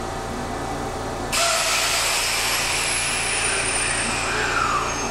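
Electric commuter train at a station: a loud rush of rolling noise starts suddenly about a second in, with thin high tones sliding down in pitch.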